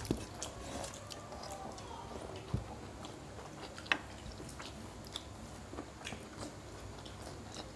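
Eating sounds of people chewing rice and chicken kasha eaten by hand: soft chewing with scattered short clicks and wet smacks of mouths and fingers.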